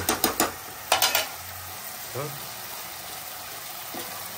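Chopped vegetables and sauce sizzling as they fry in a non-stick wok, with the spoon and spatula clinking against each other and the pan in two quick runs during the first second or so as the sauce is scraped off and stirred in.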